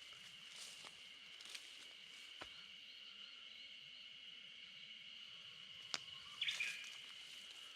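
Steady, high-pitched insect chorus in early-summer countryside. A brief bird call comes about six and a half seconds in, with a few light clicks.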